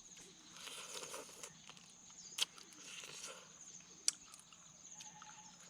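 Eating fresh blue crab: crunching and chewing, with two sharp cracks as the shell is bitten through. A steady high insect trill runs behind it.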